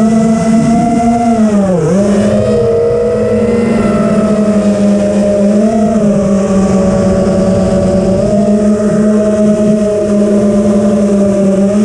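Multirotor drone's motors and propellers whirring in a steady, loud hum. The pitch dips briefly about two seconds in and wavers slightly a few times as the throttle is adjusted.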